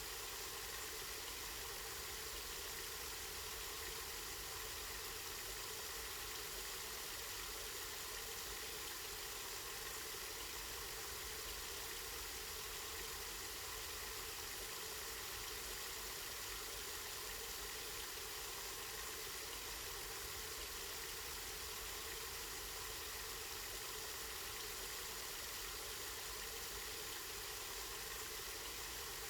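Spring water flowing steadily in an even, unbroken rush, over a faint low rumble.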